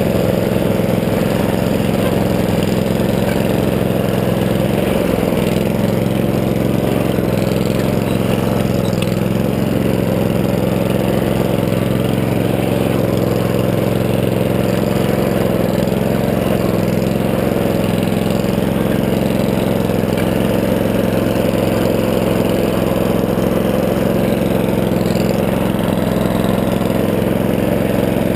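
Lawn tractor engine running steadily at a constant speed.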